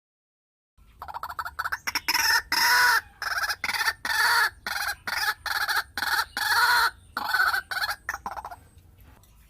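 A fowl clucking and squawking in a rapid run of short calls, starting about a second in and stopping shortly before the end.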